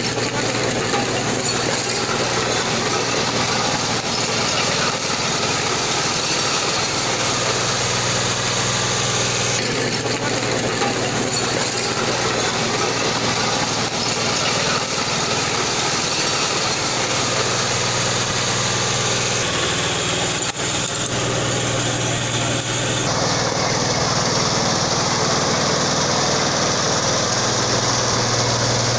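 Bulldozer's diesel engine running steadily, its tone shifting a few times.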